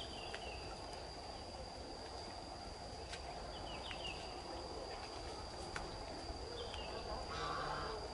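Outdoor garden ambience: a few short bird chirps over a steady high-pitched whine and a low background hum, with a brief rustle near the end.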